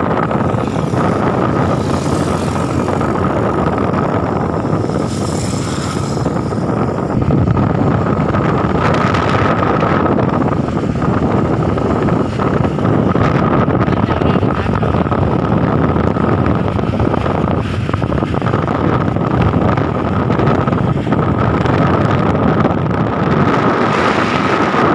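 Strong wind buffeting the microphone over the steady noise of a moving vehicle, with a thin, steady high whine beneath.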